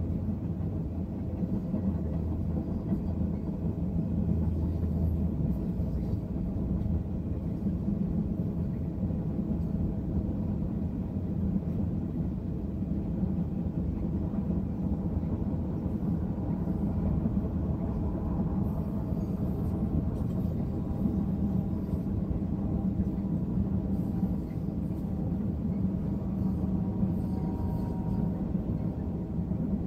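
BNSF intermodal freight train's railcars rolling past, a steady low rolling noise of wheels on rail.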